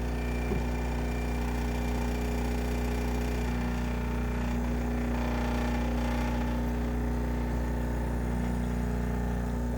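DeLonghi ES460S espresso machine's vibratory pump running steadily, humming while it pulls a long espresso shot. The hum is louder than it should be because the machine is missing its plastic feet.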